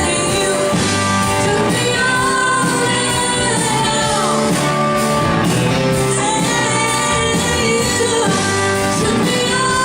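Live band playing a rock song, with a lead vocal singing over it.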